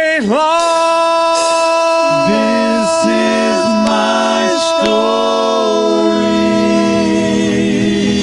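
Singing: one long held note closing a gospel song, with a lower voice or instrument line moving beneath it in the middle.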